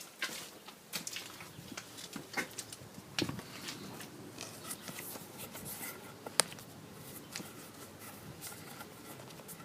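Footsteps and scuffing over flood debris and mud: irregular small clicks and crackles, with one sharp click about six seconds in.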